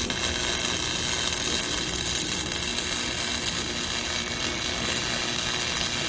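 Lincoln Electric Weld-Pak flux-core wire-feed welder laying a tack on steel rebar: the arc sizzles and crackles steadily for about six seconds, starting and stopping abruptly.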